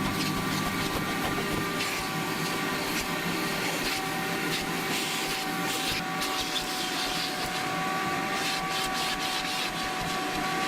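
Vacuum cleaner running steadily, a rushing airflow noise with a faint motor whine.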